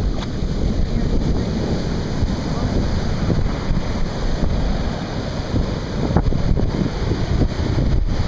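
Hurricane wind buffeting the microphone in uneven gusts over the steady rush of storm surf.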